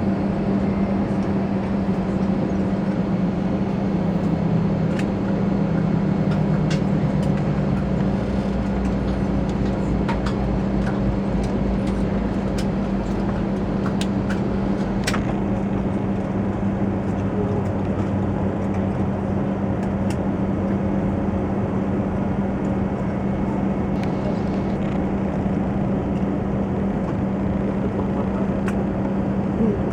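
Steady cabin noise inside an Airbus A320-214 on the ground after landing: an even hum with a constant low tone, and a few faint clicks about five to fifteen seconds in.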